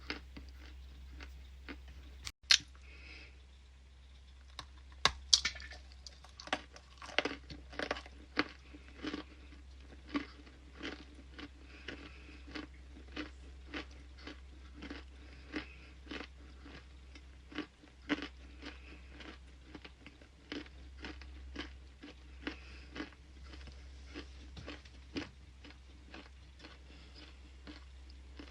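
Close-miked mouth ASMR: a person bites into something hard and brittle, with two sharp loud snaps in the first few seconds. Steady crunchy chewing follows at about two crunches a second.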